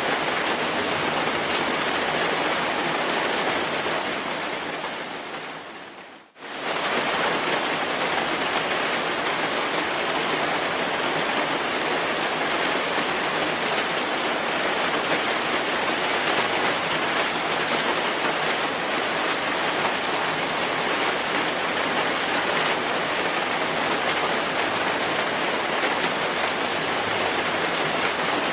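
Steady, dense rainfall. About four seconds in it fades down, drops out almost completely for a moment near six seconds, then comes back abruptly at full strength and runs on evenly.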